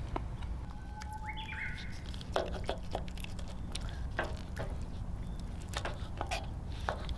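A bird chirps briefly about a second in, a short call that steps up in pitch. Scattered short clicks and crackles run over a steady low rumble.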